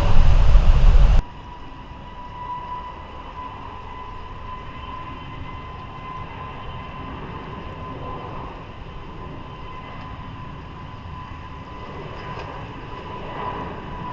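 Loud jet rumble cuts off abruptly about a second in. It gives way to a steady, much quieter high whine over a low rumble from an Airbus A321's jet engines at low power on the ground.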